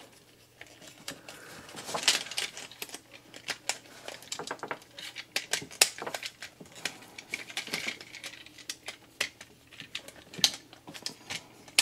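Plastic parts of a Transformers action figure clicking and rattling in the hands as they are folded and pegged into place during transformation, a run of small irregular clicks.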